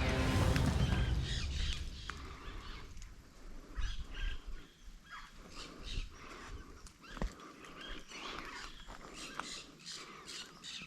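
Wild birds calling: many short, high chirps and calls, scattered and irregular. A louder low sound fades out over the first two seconds.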